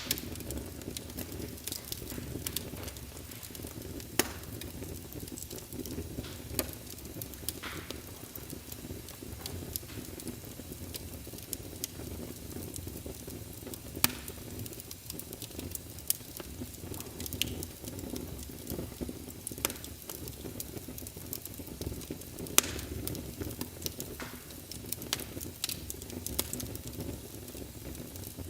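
Fire burning in a fireplace: a steady low rush of flames, with sharp crackles and pops every second or two at irregular intervals.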